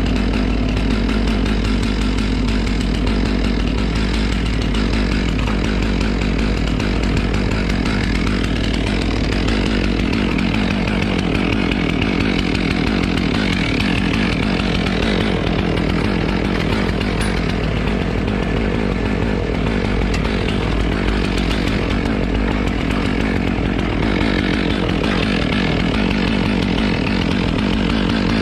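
Chainsaw running steadily, cutting maple wood.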